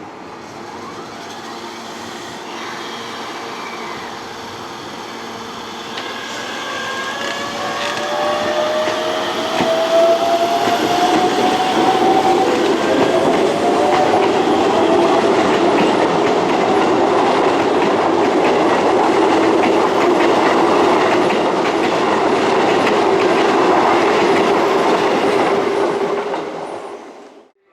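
Keisei electric train running close by, growing louder over the first ten seconds and then staying loud, with a motor whine that rises in pitch and wheels clacking over rail joints. The sound cuts off abruptly near the end.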